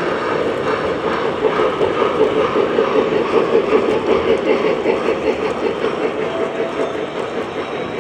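Model train running along its track, a steady rolling rumble that swells into a rhythmic clatter of about three beats a second for a few seconds in the middle, then eases off.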